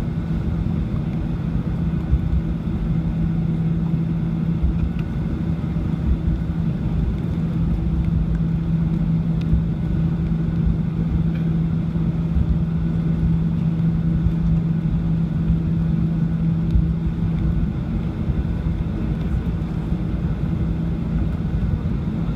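Steady cabin noise inside a Boeing 737-800 on the ground after landing: a loud low rumble with a steady hum that stops about three-quarters of the way through.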